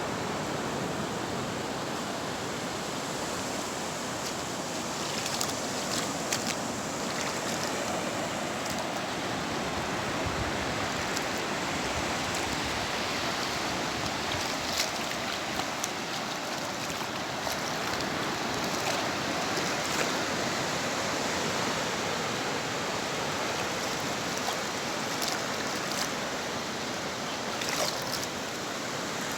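Ocean surf washing onto a beach: a steady rush of waves, with a few faint clicks.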